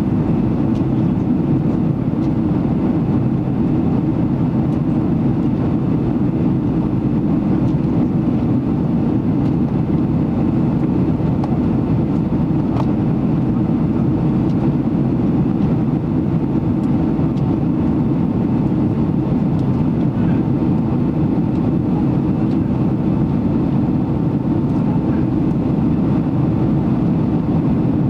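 Steady low roar inside the passenger cabin of a Boeing 767-300ER, from its engines, unchanging throughout.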